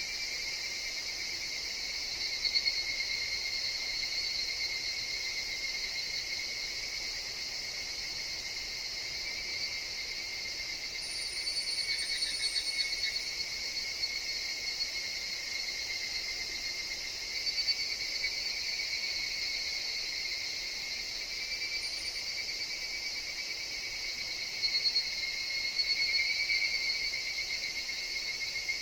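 Chorus of higurashi (evening cicadas) in forest: a continuous high, ringing drone that swells louder in several bouts as individual calls rise and fade.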